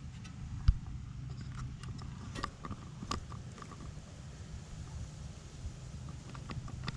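Scattered small clicks and knocks, with one sharp thump about a second in, over a steady low hum.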